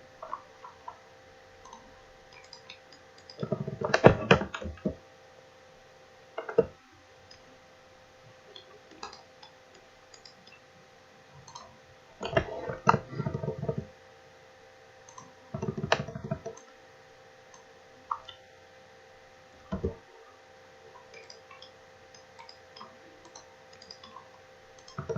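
Computer mouse clicks and keyboard typing, in scattered short bursts, over a faint steady electrical hum.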